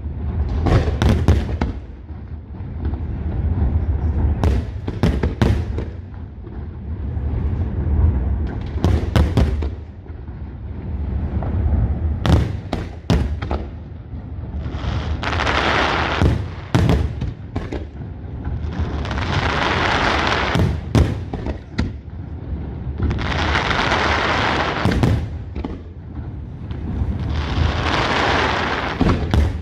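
Aerial fireworks display: repeated shell bursts with deep booms and sharp cracks. In the second half, four swells of hissing crackle come about every four seconds.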